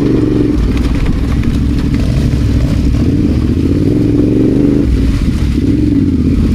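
Adventure motorcycle engine running under way off road, its pitch rising and falling as the throttle opens and closes, over a steady low rumble.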